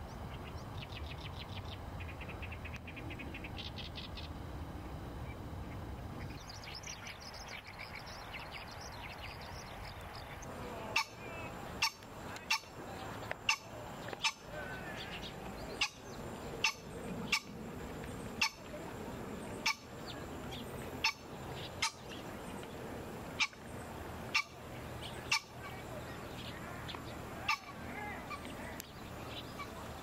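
Small birds calling: quick runs of high pulsed notes, then a burst of chattering calls. From about eleven seconds in, a series of sharp clicks about once a second stands out above the calls.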